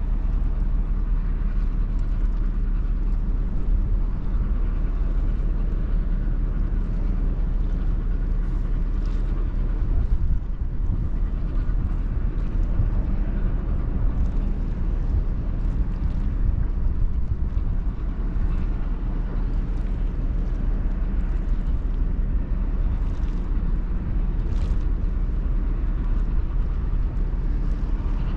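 Ro-Ro passenger ferry under way: a steady, unbroken low engine rumble with wind noise on the microphone.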